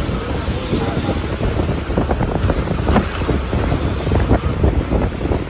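Wind buffeting the microphone: a steady low rumble with rough, irregular flutters throughout.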